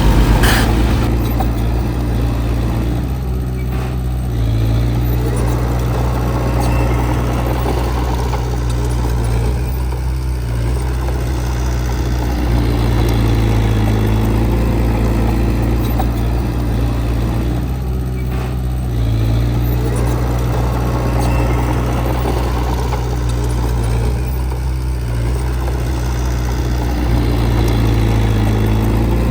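Heavy diesel engine of earthmoving machinery running steadily, its load shifting every several seconds as it works. There is one brief knock right at the start.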